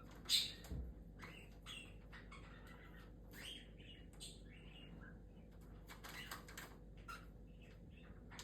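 Pet galah cockatoos chirping softly, many short high chirps scattered through, with one louder call near the start and a brief low thump just after it.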